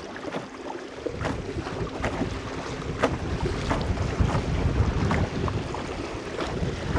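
Wind buffeting the microphone over water washing against a moving canoe's hull, with sharp slaps or ticks about once a second and a faint steady hum for the first few seconds.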